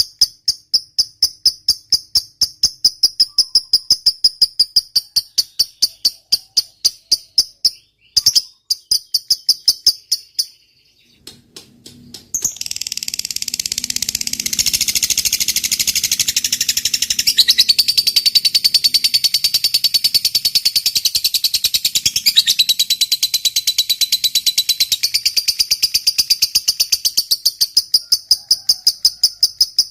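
Lovebird ngekek: a long, continuous, rapid high chattering trill lasting well over ten seconds. It is set between runs of evenly repeated high chirps, with a short break before it.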